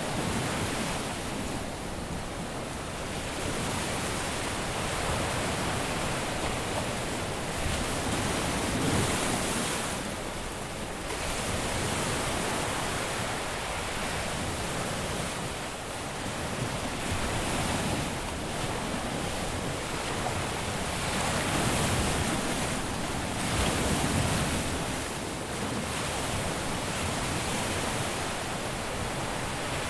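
Caribbean surf breaking and washing on a beach, a continuous rushing wash that swells and eases every few seconds as waves come in.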